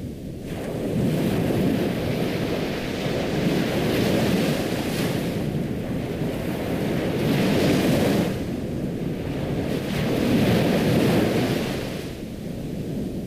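Ocean waves washing onto a shore, each surge swelling and easing off every few seconds.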